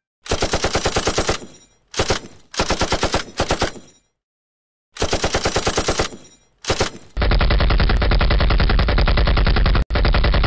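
Machine-gun fire sound effects: several short bursts of rapid shots, then from about seven seconds in one long, heavier continuous burst with a deep low boom.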